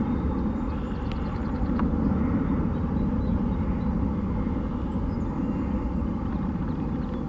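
Steady low rumble and hiss of a jet airliner's engines, a Boeing 787-8 lined up on the runway waiting for takeoff clearance.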